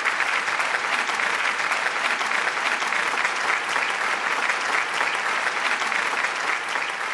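An audience applauding, dense steady clapping that begins to ease off near the end.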